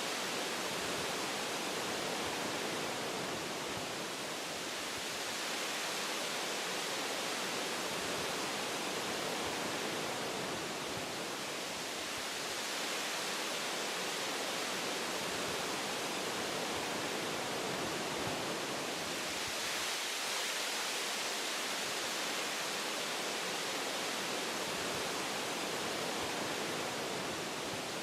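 Wind blowing through forest tree branches, a steady rushing hiss that swells and eases gently every several seconds as gusts come and go.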